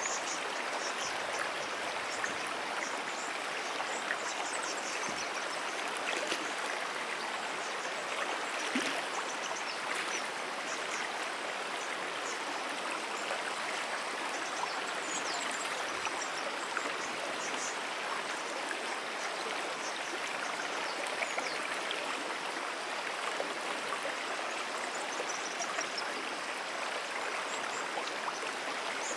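Stream water flowing steadily, an even, continuous rush. Faint short high chirps come now and then.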